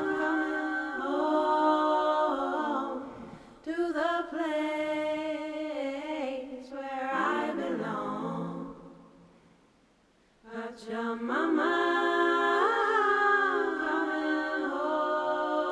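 Slow a cappella vocal music, choir-like voices holding long sustained notes in phrases a few seconds long, with a brief break about nine seconds in.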